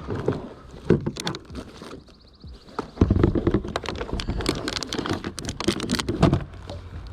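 Rapid clicks, knocks and rattles of a small northern pike being handled in a kayak, loudest and busiest about halfway through.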